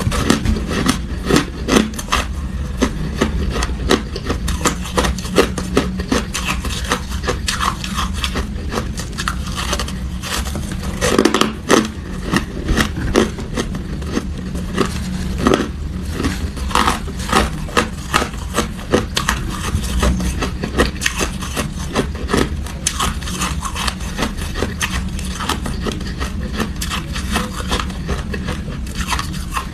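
Hard ice being bitten and chewed close to the microphone: dense, irregular crunching and cracking, several crunches a second, over a steady low hum.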